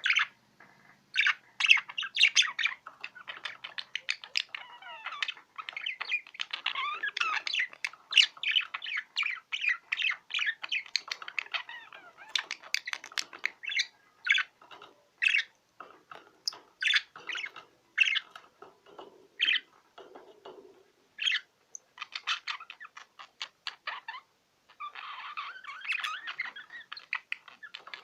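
Male budgerigar warbling and chattering in a quick run of short chirps and squawky notes, a courtship song meant to rouse the female to mating.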